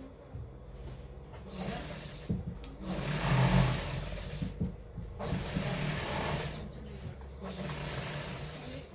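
Sewing machine stitching in four short runs of a second or two each, stopping between them.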